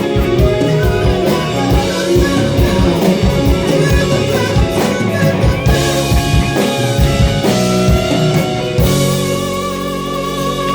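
Live rock band playing the instrumental close of a song: guitar over drum kit. The drums stop about nine seconds in and a final chord is left ringing.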